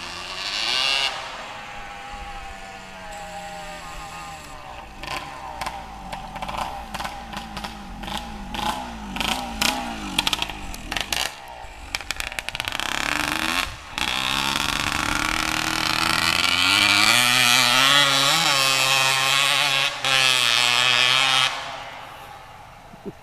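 1982 Yamaha IT175's two-stroke single-cylinder engine running without a silencer: a series of sharp throttle blips, then revved hard and held high for several seconds with a brief dip, before the sound drops away near the end.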